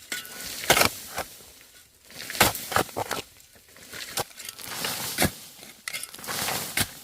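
Irregular crunching strikes, six or seven of them, with rustling and scraping in between.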